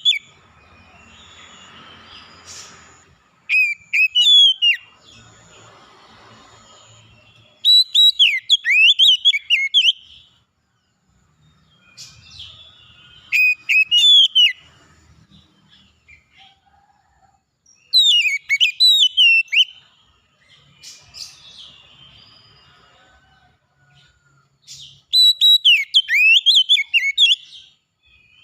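A songbird singing loud, whistled phrases, each about two seconds of rapid rising and falling notes, repeated five times with pauses of a few seconds, with fainter chirps and a soft hiss in between.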